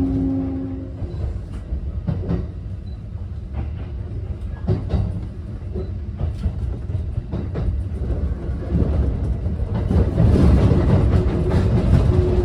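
Kintetsu local electric train running, heard from inside the car: a steady low rumble with irregular clacks as the wheels cross rail joints and the points of the turnouts. It grows louder and busier from about nine seconds in.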